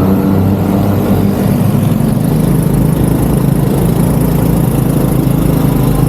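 Vehicle engine running steadily with low road rumble, heard while riding in the vehicle.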